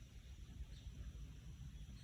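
Faint outdoor ambience: a low, uneven rumble like wind on the microphone, with a faint short bird chirp about three-quarters of a second in.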